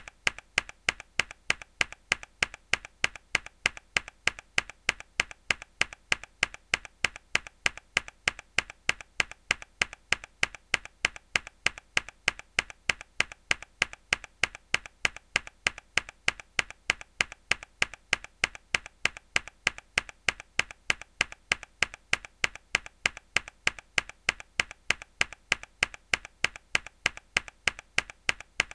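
A single hard key press on a mechanical keyboard, looped: a sharp click repeated over and over at an even, quick pace.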